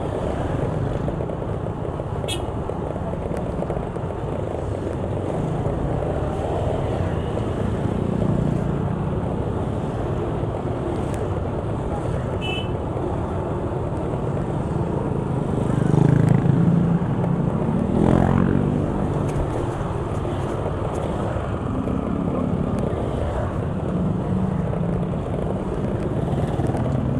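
Motor vehicle engines and road noise in slow-moving, jammed traffic, with one engine revving up briefly about 16 to 18 seconds in.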